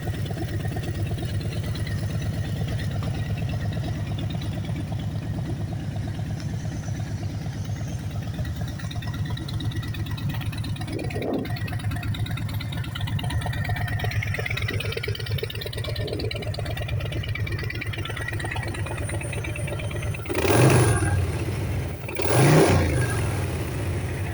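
Harley-Davidson Sport Glide's Milwaukee-Eight 107 V-twin idling steadily, then revved twice in short throttle blips near the end.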